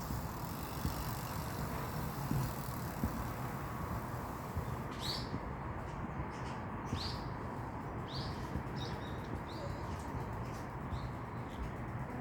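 A small bird gives short, sharp chirps, several in a row with brief gaps, starting about five seconds in. Under them runs a steady low background noise.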